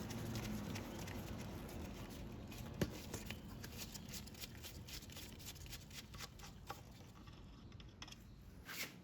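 Faint scattered clicks and scratchy rustling of hands handling the oil dipstick during an oil-level check, with one sharper click about three seconds in.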